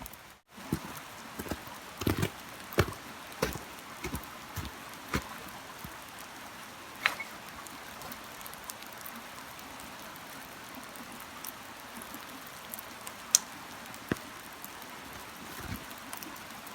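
Steady rain hiss with scattered heavy drops tapping and thudding at irregular intervals. The drops come thickest in the first few seconds, and there is one sharp loud tap about thirteen seconds in.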